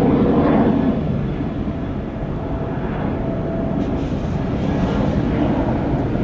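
Jet airliner engines running, a steady low rumble that is loudest in the first second and eases a little after.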